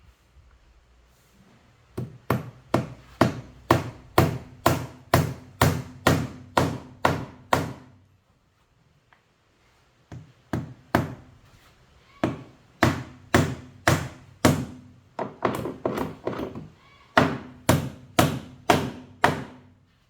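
Hammer driving square copper nails into a plywood boat bulkhead: steady blows about two a second, in two runs with a pause of about two seconds between them.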